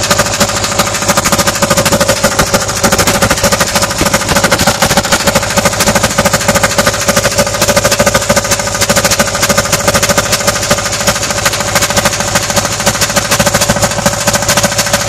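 Jeep engine running with its intake opened up, chugging in fast, even pulses as air puffs back out of the intake. The owner takes this backflow to be most likely a damaged valve not seating.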